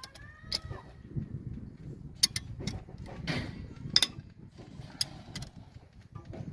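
Hand tools and metal parts clinking and knocking at irregular intervals while a Cummins 6BT diesel cylinder head is taken apart, with a few brief squeaks in the first second.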